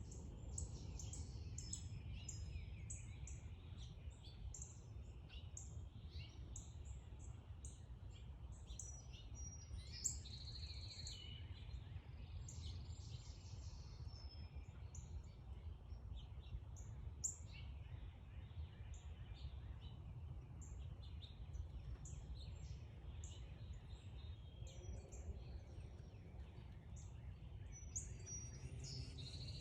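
Backyard birds chirping: many short, high chirps from several birds, over a steady low background rumble.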